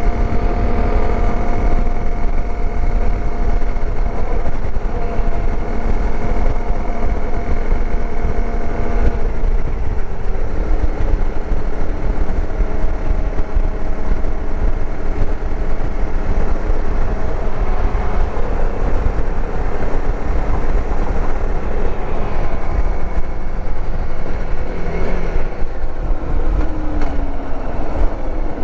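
Dirt bike engine running while riding, over a strong low rumble. The engine note changes about nine seconds in and falls away near the end as the bike slows.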